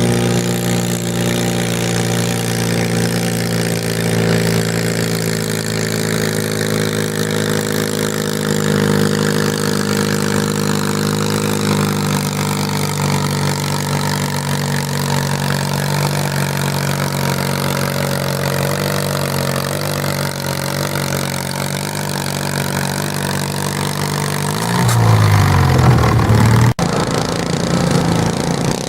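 Garden tractor engine running hard at a steady high pitch under pulling load. About four seconds before the end its pitch sags and it gets louder, then there is a sudden sharp click.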